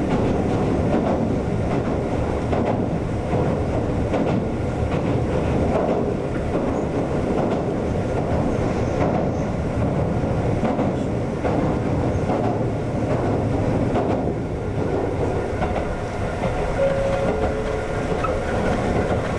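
Konan Railway 7000-series electric train (ex-Tokyu 7000) running along the line, a steady rumble with the wheels clattering over rail joints, heard from inside the car.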